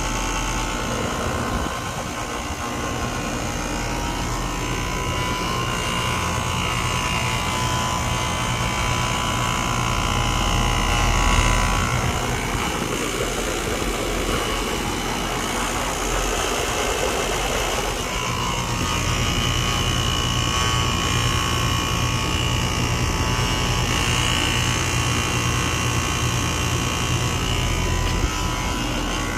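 Air conditioner compressor unit running with a steady hum, making what is taken for a strange noise. For several seconds in the middle the low hum weakens and a rougher, noisier sound comes up, then the steady hum returns.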